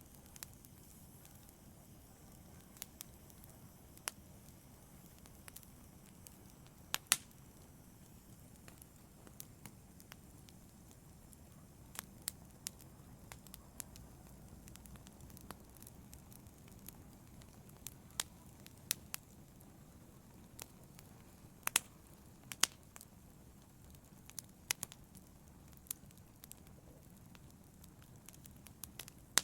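Fire in a fireplace crackling: irregular sharp pops and snaps over a soft, steady low rush, with two louder pops, about seven seconds in and about twenty-two seconds in.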